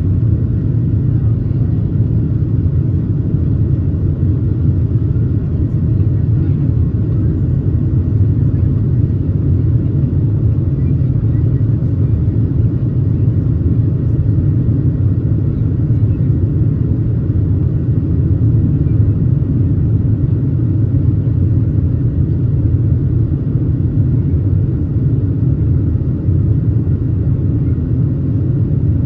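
Steady low rumble inside the cabin of a Boeing 737-700 airliner: the CFM56 jet engines and airflow, holding even with no change in pitch or level.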